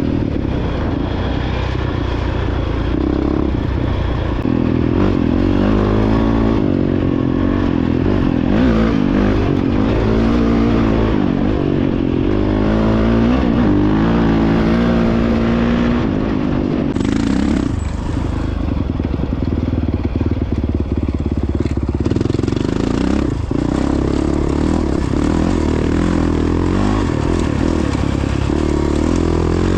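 Honda CRF450X single-cylinder four-stroke dirt bike engine running under way. Its pitch rises and falls with the throttle through the first half and holds steadier in the second half.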